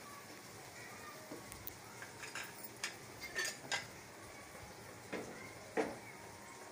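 Egg omelette frying in ghee on a flat tawa, a faint steady sizzle, broken by a scatter of sharp clinks and clicks of kitchen utensils between about two and four seconds in and twice more near the end, the last one the loudest.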